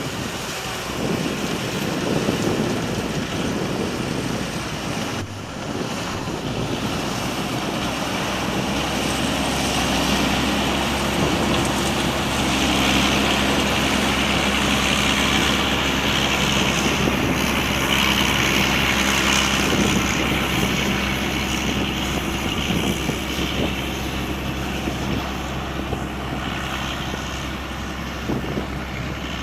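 Combine harvester with an Isuzu 6M61 diesel engine running steadily under harvesting load, a low even hum with a hiss that grows louder through the middle.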